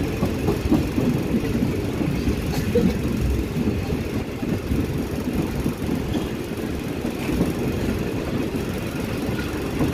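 Passenger train running along the track, heard from inside the carriage at an open window: a steady rumble of wheels on rail with small irregular knocks.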